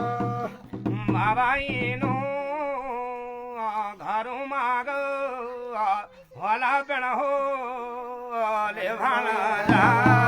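A male voice sings a long, wavering melismatic phrase of a Garhwali jagar devotional song with the accompaniment dropped out. Near the end, a steady-toned instrument and a drumbeat come back in.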